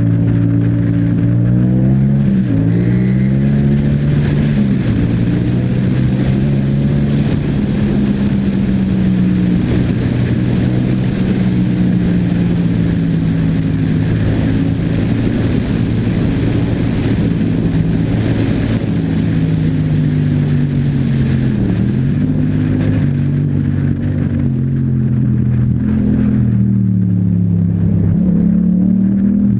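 Yamaha MT-07's 689 cc parallel-twin engine through an Akrapovic exhaust, running under load while riding, its pitch rising and falling with the throttle. The pitch drops sharply a few times, twice in the first few seconds and once about two-thirds through, like gear changes or rolling off the throttle.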